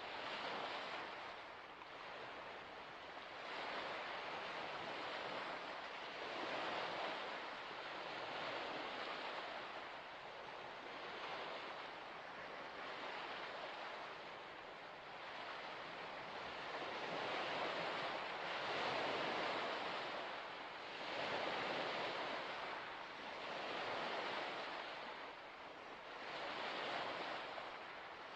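Small waves lapping and breaking on a shore, a steady wash that swells and falls back every two to three seconds, with some wind.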